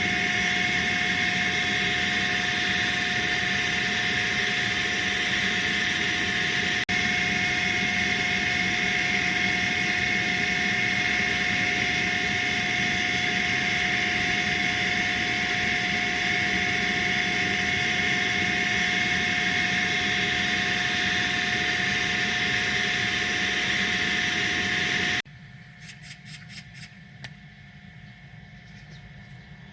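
Log-splitting machine running steadily, a constant mechanical drone with a high whine. It cuts off abruptly about 25 seconds in, leaving a much quieter background with a few small clicks.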